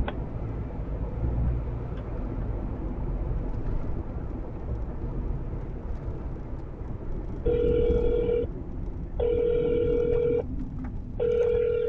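Steady low road rumble inside a moving car, then a phone line's ringing tone sounding three times, each ring about a second long with short gaps: the ringback of a call being transferred and not yet answered.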